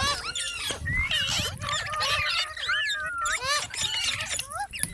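Rose-ringed parakeets (green ringneck parrots) chattering and squawking: a continuous run of quick rising and falling calls, often overlapping.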